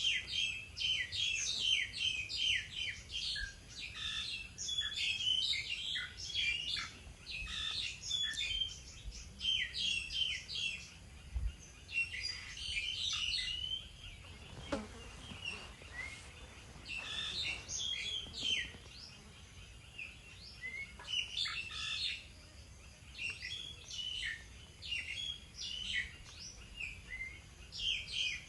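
Small birds chirping and twittering: many quick, high chirps in dense runs, broken by a few short lulls.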